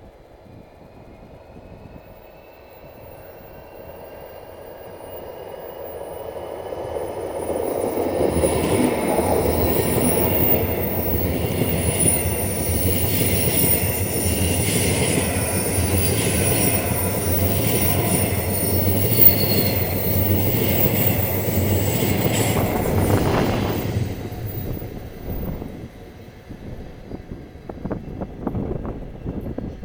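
ES2G Lastochka electric multiple-unit train approaching and passing close by: a faint rising whine as it nears, then a loud steady rumble of wheels on the rails for about a quarter of a minute, which drops away suddenly as the last car goes by.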